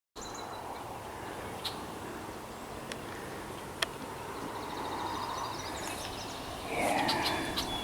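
Outdoor woodland ambience: a steady background hiss with a few sharp clicks, a fast ticking trill from a bird or insect a little past the middle, and a louder call or rustle near the end.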